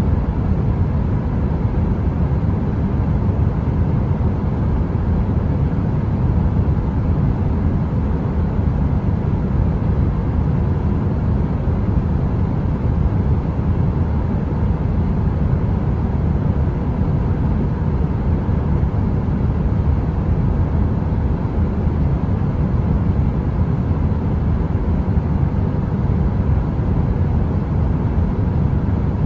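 Heater running with a steady, deep rumbling hiss and a faint constant hum, unchanging throughout, with no crackle.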